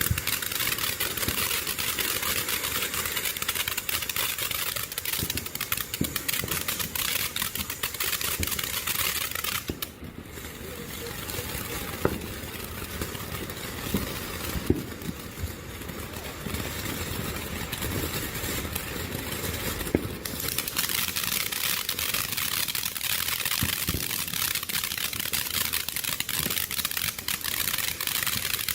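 Spirit of Freedom firework fountain burning: a steady spray-like hiss with scattered sharp pops and crackles. It dips briefly about ten seconds in and grows fuller and denser from about twenty seconds in, consistent with its angled finale tubes firing a shower and then crackle.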